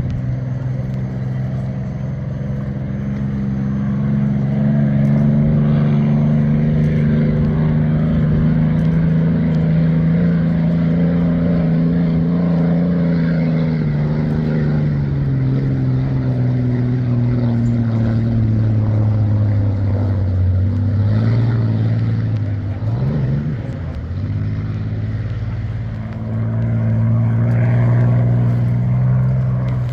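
Straight-piped 27-litre Rolls-Royce Merlin V12 of a vintage hydroplane running loud. Its note climbs over the first several seconds, sags through the middle, dips briefly and wavers a little past twenty seconds, then climbs again near the end.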